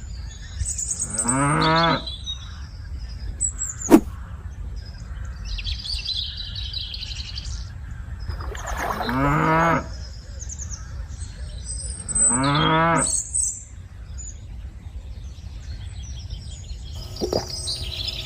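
Cattle mooing three times, each call about a second long, with birds chirping between the calls and a single sharp click about four seconds in.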